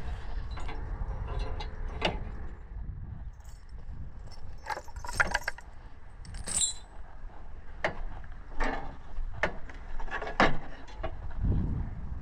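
Pronar 1025A tractor engine running with a steady low rumble, overlaid by frequent irregular clicks and rattles.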